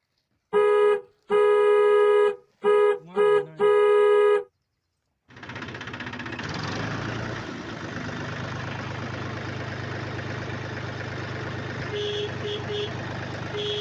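Five loud horn blasts on one steady pitch over about four seconds; the fourth blast wavers in pitch. After a short gap, a steady engine-like running noise starts, with two quick sets of short horn beeps near the end.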